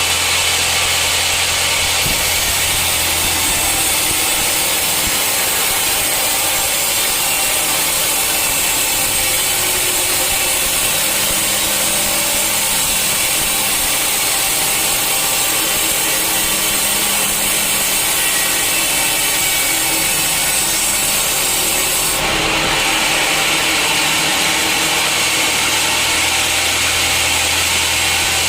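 Sawmill saw cutting steadily through a hard teak stump, a loud, continuous sawing noise. A low motor hum underneath fades out a few seconds in and comes back near the end.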